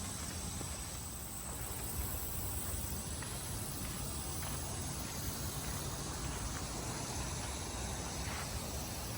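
Steady outdoor background noise: a low rumble with a thin, steady high-pitched hum over it and a few faint ticks.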